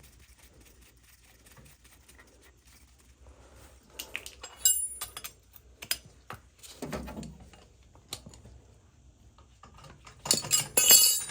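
Small metal parts and tools clinking and rattling as a new nozzle is fitted to an oil burner's nozzle assembly, in scattered knocks with a denser, louder run of clinks near the end.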